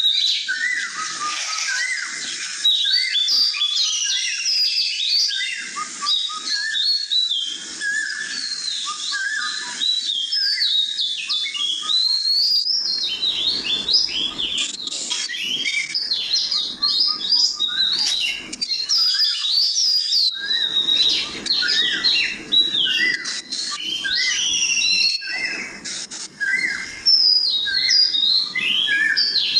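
A chorus of small songbirds chirping: many rapid, overlapping high chirps and short whistled notes with no pause.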